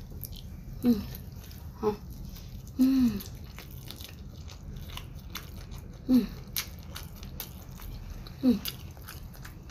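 Close-up chewing and biting: a person eating with the mouth near the microphone, with small wet clicks throughout. Five short voiced sounds, falling in pitch, break in at intervals.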